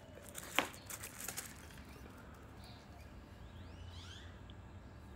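A sharp click about half a second in, then faint bird chirps about three and a half to four and a half seconds in, over a low steady rumble.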